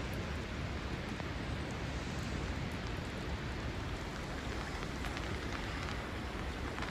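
Steady rain-like hiss over a low rumble, with a few faint ticks of drops.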